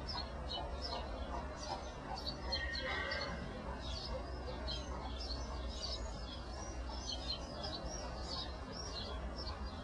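Small birds chirping, many short high notes in quick irregular succession, over a steady low hum.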